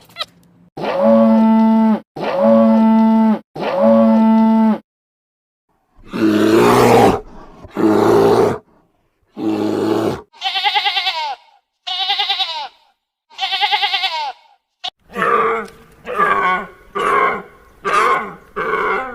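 A run of different animal calls edited one after another: the same drawn-out call three times over, a short gap, then several other calls, turning into short, rapid calls near the end.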